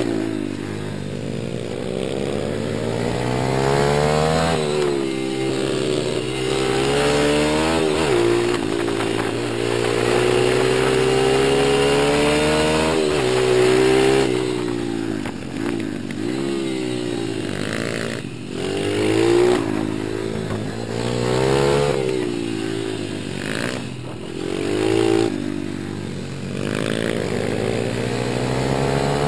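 Small dirt bike engines running and revving: the pitch climbs and falls back repeatedly every few seconds as the throttle is opened and closed.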